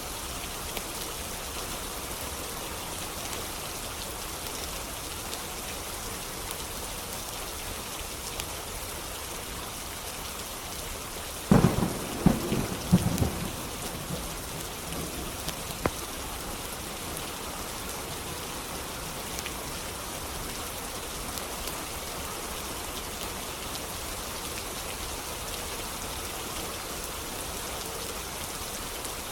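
Steady rain hiss with a thunderclap about twelve seconds in: a sudden loud crack followed by about two seconds of crackling rumble. A single sharp click follows a few seconds later.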